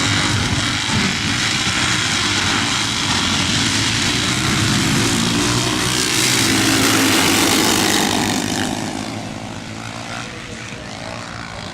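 Pre-1976 motorcycle engine on open pipes, running hard on a hill climb. It is loud until about eight seconds in, then fades as the bike moves away.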